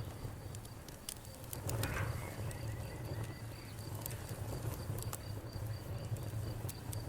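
Fire crackling, with scattered sharp pops over a low steady rumble, while crickets chirp in an even high pulse behind it.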